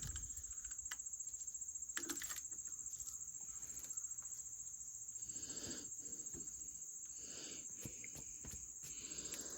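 Crickets chirping steadily in a continuous high-pitched trill, with a few faint scuffs and rustles.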